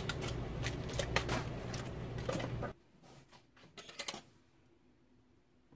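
Foil cooking packet being torn open and unfolded, a rapid run of crinkling crackles over a steady low hum. The hum cuts off suddenly just under three seconds in, and a few more crinkles follow about a second later.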